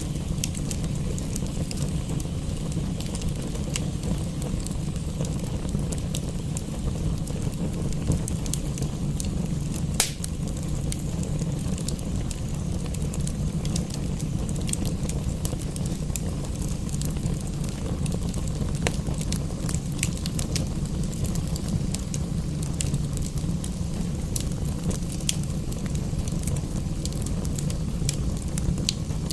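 Fireplace wood fire crackling, with frequent sharp pops scattered over a steady low rumble; one louder pop about ten seconds in.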